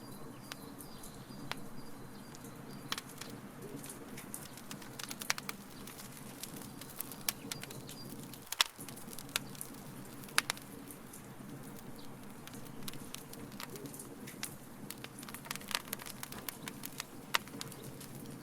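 Wood fire in a fire pit burning with irregular sharp crackles and pops over a steady low rumble of the flames.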